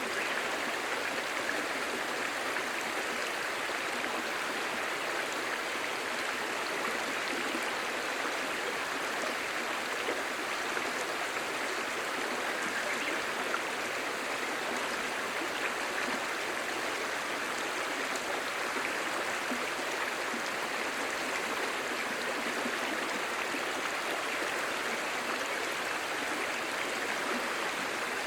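A clear shallow stream babbling and gurgling over stones, a steady, even rush of running water.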